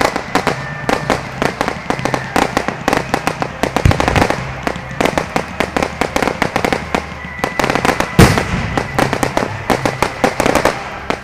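Fireworks going off: a rapid, dense crackling of many small pops, with two louder bangs about four and eight seconds in, cutting off suddenly at the end.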